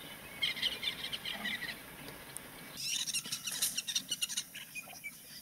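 Small birds chattering in two bursts of rapid, high chirps over faint outdoor hiss; the second burst is louder.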